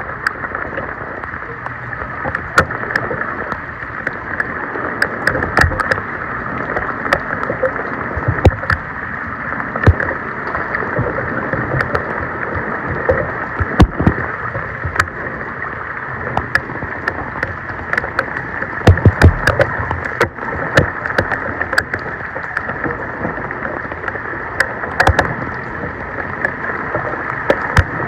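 Floodwater rushing and splashing around a street storm drain as it is cleared, with many sharp irregular knocks and splashes.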